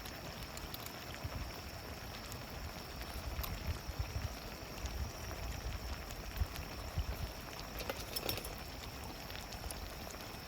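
Wood campfire crackling, with scattered sharp pops and a small cluster of them near the end, over a steady low rumble and a faint steady high tone.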